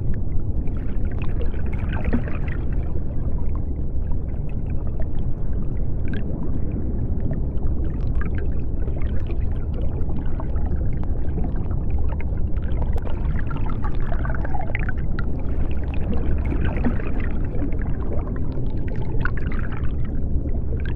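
Deep-sea underwater ambience: a steady low rumble with watery noise, and faint wavering calls that rise and fall at several points.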